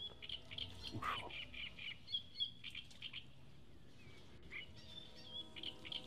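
Small birds chirping, in quick runs of short high chirps.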